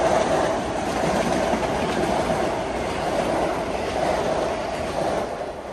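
Train running on the rails: a steady, loud rumble of wheels and cars that drops away sharply near the end.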